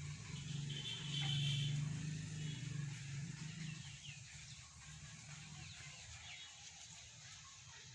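A motor vehicle running past, with a brief high tone about a second in, fading out after about four seconds; birds chirp faintly through it.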